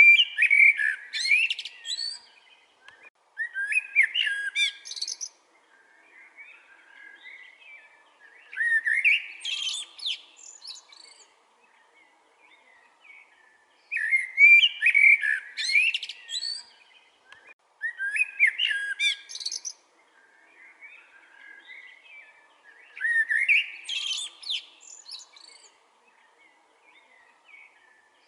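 Common blackbird singing: about six warbling song phrases, each a couple of seconds long, separated by pauses of a few seconds that hold faint softer twittering.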